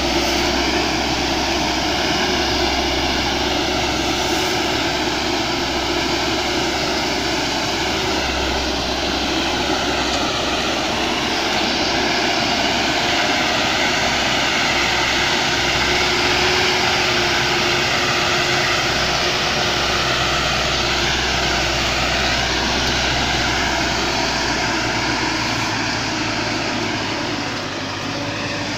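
A vehicle engine running steadily, its pitch wavering slightly, with a steady hiss over it.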